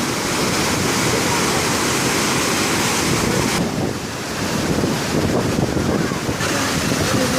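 Muradiye Waterfall's falling water, a loud steady rushing roar, with wind buffeting the microphone.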